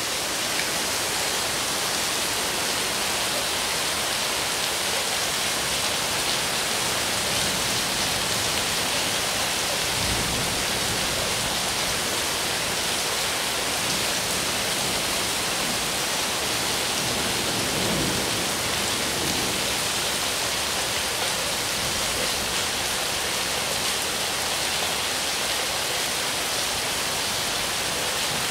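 Heavy rain falling steadily: a dense, even downpour hiss.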